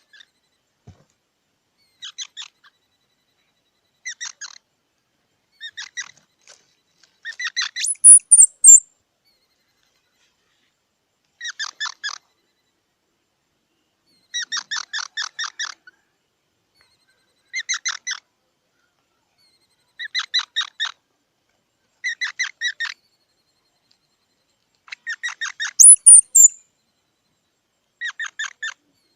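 Squirrel calling in repeated short bouts of rapid, sharp chips, each bout under a second and coming every two to three seconds. Two louder, higher squeals stand out, one about eight seconds in and one near the end.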